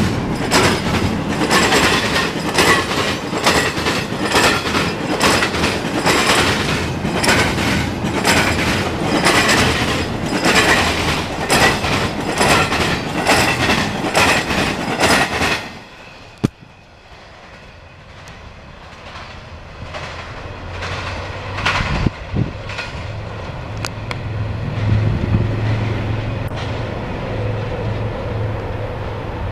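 A CSX double-stack intermodal freight train passes close by, its wheels clattering in a steady rhythm of clicks over the rail joints. About sixteen seconds in, the sound drops off suddenly to a much quieter background, with one sharp knock and then a low rumble building near the end.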